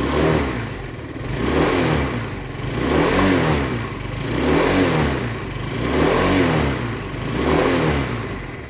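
Yamaha Cygnus X SR 125cc scooter's single-cylinder four-stroke engine through its stock muffler, being revved repeatedly: six throttle blips about a second and a half apart, each rising and falling back toward idle.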